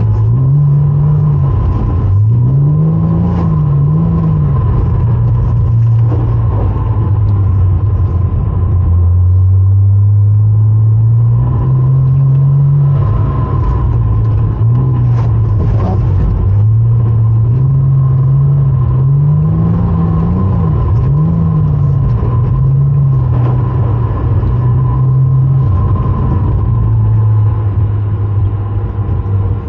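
Porsche Cayman engine revving up and down over and over as the car is drifted, the revs climbing and dropping every second or two, with one longer steady climb about ten seconds in.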